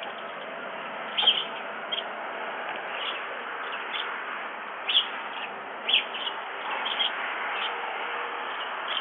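Birds at a feeder giving short chirps, roughly one a second, over a steady hiss. The loudest chirps come about a second, five seconds and six seconds in.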